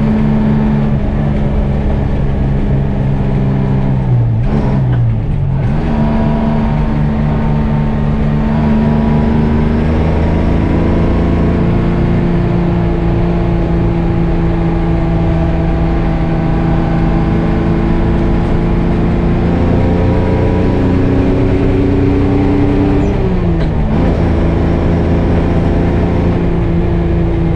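GMC Crackerbox semi truck's two-stroke Detroit Diesel engine running under load on the road, a steady loud drone. The engine speed drops sharply about four seconds in and again near the end, as gears are shifted.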